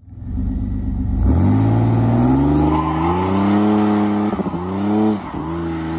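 Vehicle engine revving and accelerating, its pitch climbing with two brief dips near the end, over a high hiss: a burnout sound effect.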